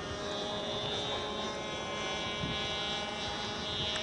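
Model airplane's small engine buzzing steadily in flight, its pitch shifting a little as it flies.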